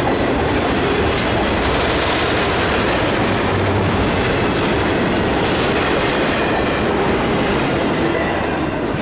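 Freight cars of an autorack and intermodal train rolling past at speed: a loud, steady rumble and rattle of steel wheels on rail.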